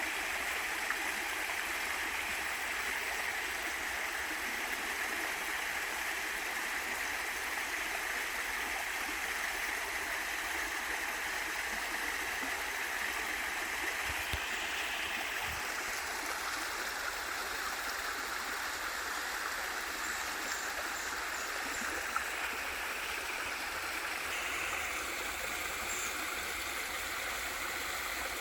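Small waterfall pouring into a valley stream, a steady even rush of running water whose upper hiss shifts slightly about halfway through.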